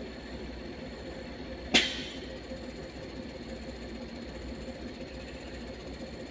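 Heavy vehicle engine idling steadily, with one sharp knock or bang a little under two seconds in.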